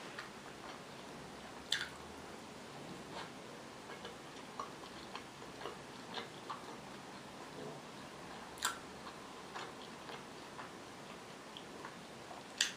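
Close-miked chewing of a meat pirozhok, with scattered wet mouth clicks and smacks over a faint steady hiss. Three sharper clicks stand out, the last near the end as the pirozhok goes back to the mouth for a bite.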